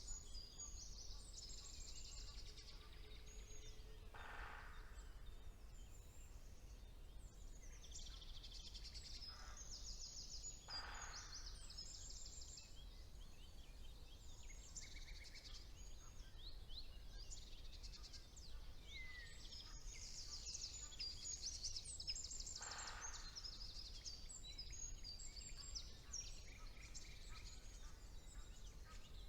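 Songbirds of a spring woodland chorus singing, several at once, in high, quick trills and phrases. A lower, rougher call comes three times, over a steady low background rumble.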